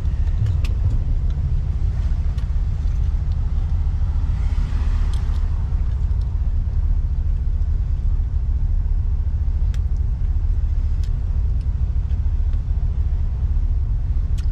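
Road and engine noise inside a moving vehicle: a steady low rumble, with a faint swell of higher noise around the middle.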